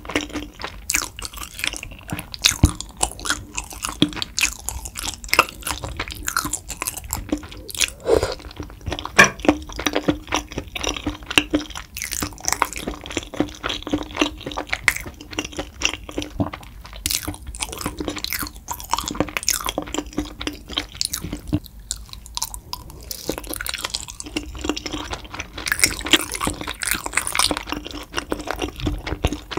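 Close-miked chewing of tteokbokki, chewy rice cakes and fish cake in spicy broth: a continuous run of wet mouth clicks, smacks and squishes with no pauses.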